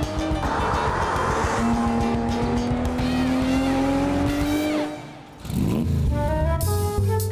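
Porsche 911 GT3's flat-six engine pulling hard through a gear, its note climbing slowly and steadily, over background music. About five seconds in the engine drops away, a sweeping whoosh follows, and a short music sting closes the window.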